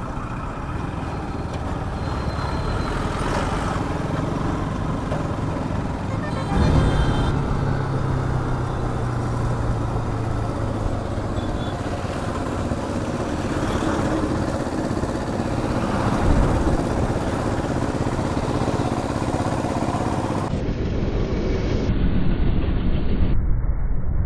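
Bajaj Pulsar RS200 motorcycle on the move: wind rushing over the microphone, with the engine running underneath. About six seconds in the engine note comes up louder and holds steady for several seconds.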